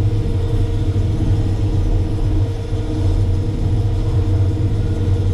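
Diesel engine of a Terex FD4000 front-discharge concrete mixer truck running steadily, a constant low rumble with a faint steady hum above it.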